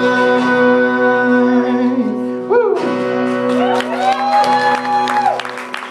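A song ending live: an acoustic guitar chord rings out under a singer's long held note, with shouts and clapping from the crowd starting near the end.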